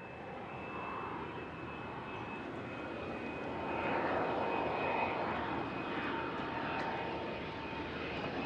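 Aircraft engines running with a broad rush and a steady high whine, growing louder over the first few seconds and then holding.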